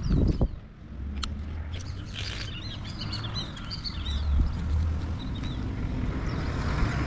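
Birds chirping in a short burst of quick high calls about two seconds in, over a steady low rumble. A dull thump comes right at the start.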